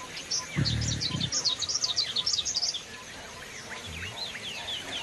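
Forest birds chirping, a quick run of many short high calls for the first three seconds, then sparser falling notes. A brief low sound comes about half a second in.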